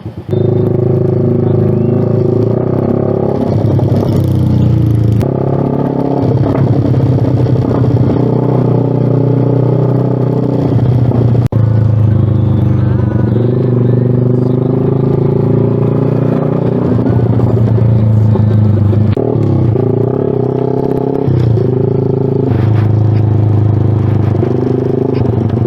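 2023 Suzuki Smash R underbone motorcycle's single-cylinder four-stroke engine running loud through a Creed aftermarket exhaust while being ridden. The engine note holds steady, then steps up or down in pitch several times with the throttle and gear changes.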